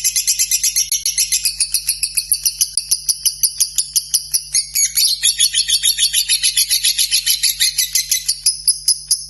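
Lovebird singing a long, unbroken chattering trill of rapid high chirps, about eight a second.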